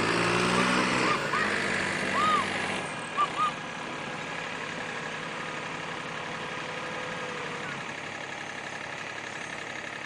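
A heavy vehicle's engine running, its pitch falling over the first few seconds as it slows, then settling to a steady idle. A few short high-pitched sounds come in the first few seconds, two of them loud and close together a little over three seconds in.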